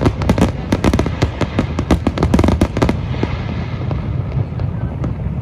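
Fireworks going off in a rapid barrage of bangs and crackles, which thins out about three seconds in to a low rumble with only scattered reports.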